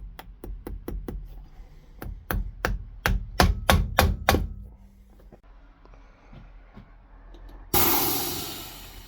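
A hammer striking a boot about fifteen times in quick succession, the blows growing louder over the first few seconds, as in resoling. Near the end comes a sudden burst of hissing noise that fades away over about a second.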